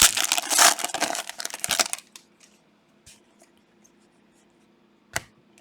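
Crinkling and tearing of a foil trading-card pack wrapper being opened by hand, a dense crackle for about two seconds that then stops; a single sharp click follows near the end.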